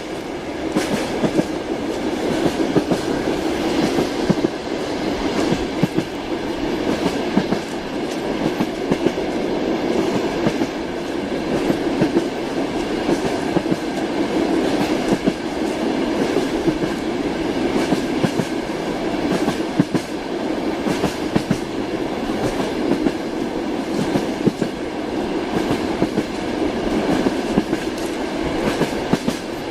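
Train running along the track: a steady rumble with an irregular clatter of wheels clicking over rail joints.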